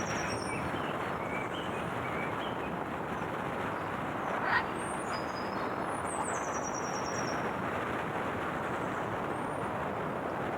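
Steady road and engine noise of a vehicle driving, with high bird calls above it, once near the start and again about six seconds in, and a short sharp sound about four and a half seconds in.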